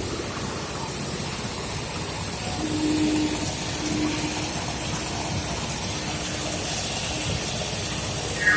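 Steady rushing of water jetted onto a railway track, mixed with the din of the station, with a faint steady hum joining about a third of the way in. Just before the end a sudden louder sound sets in, falling in pitch.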